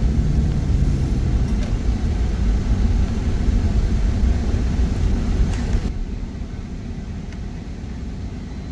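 Steady low road and engine rumble inside a moving pickup truck's cab, dropping suddenly to a quieter, duller rumble about six seconds in.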